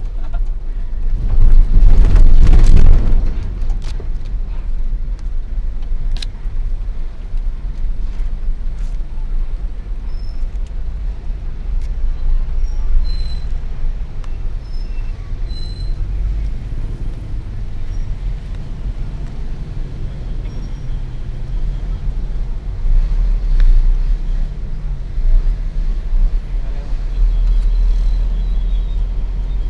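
Heavily loaded Hino FL 260 JT truck's six-cylinder diesel engine running steadily on the road, a deep rumble throughout, with a loud surge about two seconds in.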